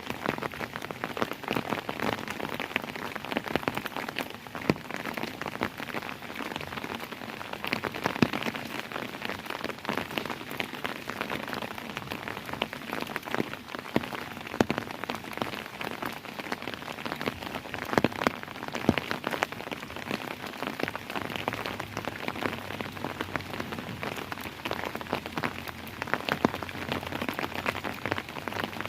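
Steady rain falling, with many individual drops ticking sharply on a surface through the even hiss of the downpour.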